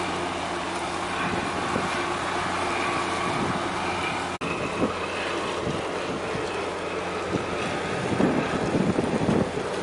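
Wind buffeting the microphone over a steady low hum of ship engines, with stronger gusts near the end. The sound cuts out for an instant about four seconds in.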